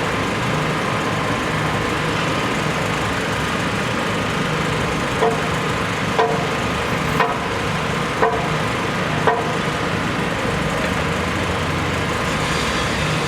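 Steady engine and traffic noise, with five ringing metallic knocks about a second apart in the middle.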